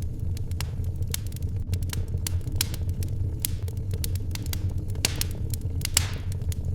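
Wood fire crackling in a fireplace: a steady low rumble of burning with many sharp crackles, and two louder pops about five and six seconds in.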